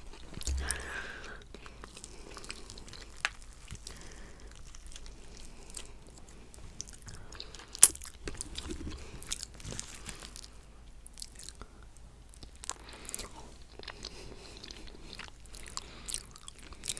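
Close-miked mouth sounds of someone chewing coconut cheesecake: soft wet smacks and small clicks. One sharp click a little under eight seconds in stands out as the loudest sound.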